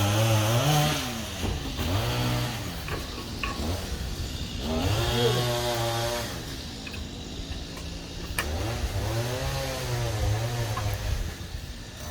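Chainsaw engine running, its pitch rising and falling again and again as it is revved and eased off. There is one sharp click about eight seconds in.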